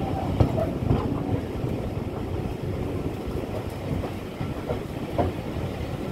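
Passenger carriage of a steam-hauled train running along the line: a steady low rumble with a few sharp knocks from the wheels passing over rail joints.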